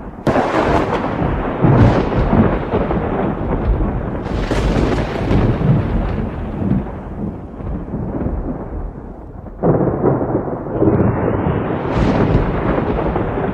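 Thunder rumbling through a thunderstorm, with a sudden loud crack just after the start and another about ten seconds in.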